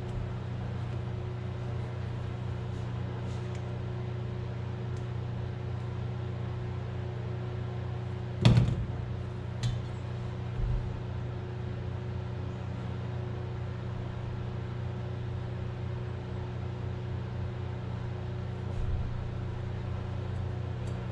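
A steady low mechanical hum. A sharp knock comes about eight and a half seconds in, followed by two softer knocks over the next two seconds.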